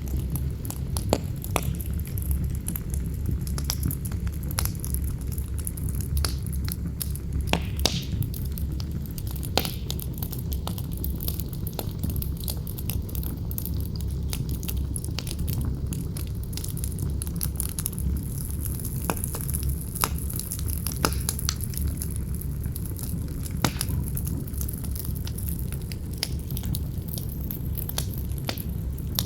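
Campfire crackling with irregular sharp pops and snaps over a steady low rumble of wind blowing.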